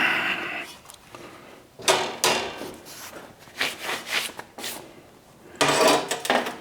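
Weld Pro MIG 210 welder's arc crackling on steel in short bursts of tack welding: one burst ending just under a second in, several brief ones in the middle, and a longer one near the end.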